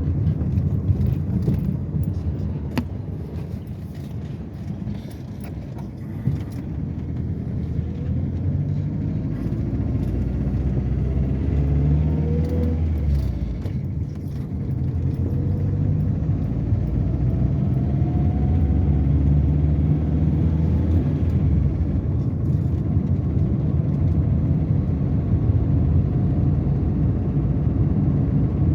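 Car engine running with road rumble. The engine pitch rises slowly a couple of times as it accelerates, roughly a third of the way in and again near the middle.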